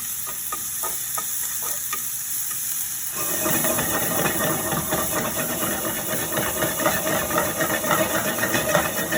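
Minced onion, garlic and ginger sizzling in hot olive oil in a pan, a steady hiss with faint ticks. About three seconds in the crackle grows louder and fuller as the aromatics are stirred around the pan.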